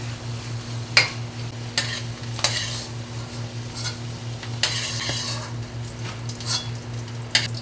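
Sliced mushrooms frying in oil and butter, stirred with a utensil that clicks and scrapes against the pan several times, the loudest knock about a second in. A steady low hum runs underneath.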